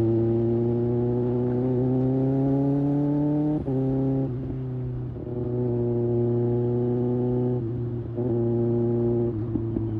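2024 Kawasaki ZX-6R's inline-four engine pulling with rising revs, then dropping sharply about three and a half seconds in as a gear is shifted. It then runs at steady revs, with brief throttle lifts near the eight-second mark and near the end.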